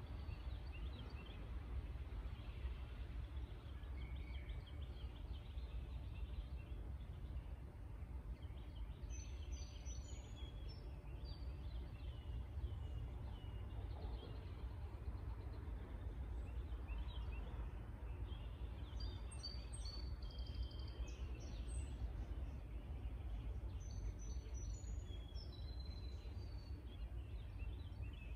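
Songbirds singing in three short runs of chirps and whistled notes, over a steady low rumble.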